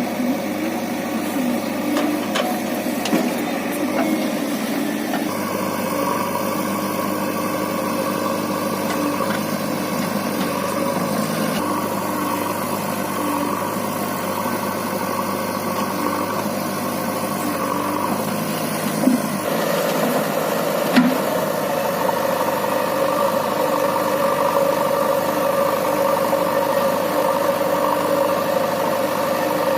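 Heavy diesel engine running steadily at low revs. Its tone changes abruptly a few times, and there are two short sharp knocks about two-thirds of the way through.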